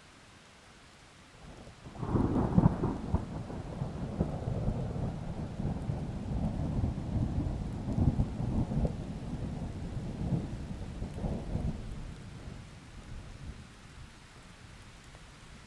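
Thunder over steady rain: a sudden crack about two seconds in, then a low rolling rumble that goes on for about ten seconds and fades out, leaving only the rain.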